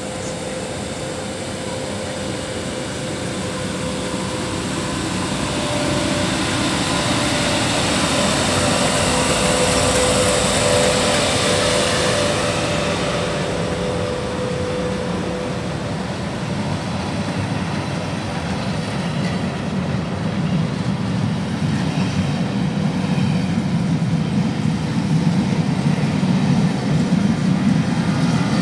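Class 86 electric locomotive pulling away and passing close by, a steady hum and hiss building to a peak about ten seconds in and then fading. Its train of coaches follows, rolling past with a rumble of wheels on rail that grows louder toward the end.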